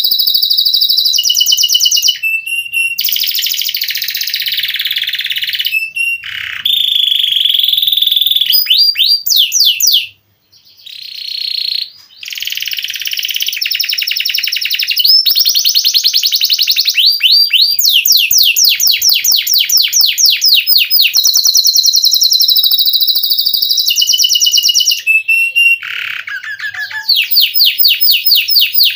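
Domestic canary singing a long, rolling song of fast trills and repeated sweeping notes, with a brief pause about ten seconds in.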